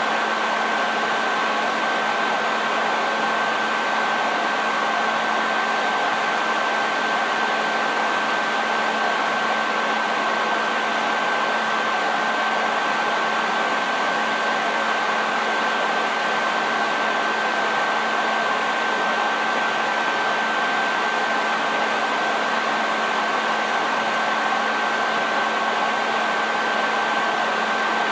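Hair dryer running continuously: a steady rush of blown air with a constant high whine and a low motor hum.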